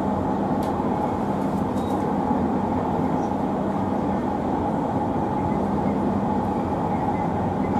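LRT Jabodebek electric train running, heard from inside its front cab: an even rolling rumble with a steady hum over it.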